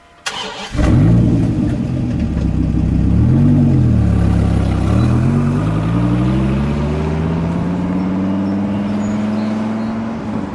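Dodge Viper's V10 engine firing up with a sudden burst, revving once, then pulling away under acceleration with its pitch climbing steadily.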